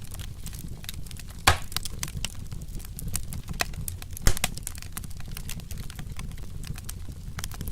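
Wood fire crackling steadily over a low rumble, with two louder pops, about a second and a half in and past four seconds.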